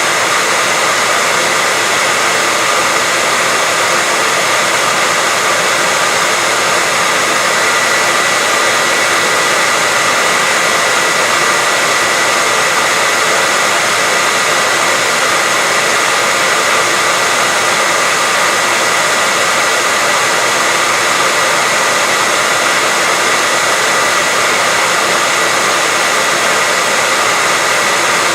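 Continuous white noise: an even, unchanging hiss with a faint steady high tone running through it.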